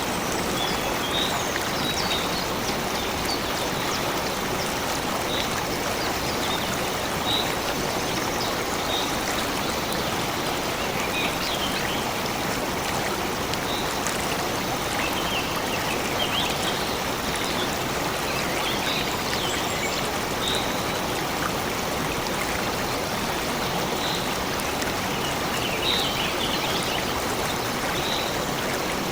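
Steady rushing of a flowing stream, with short, high bird chirps scattered over it.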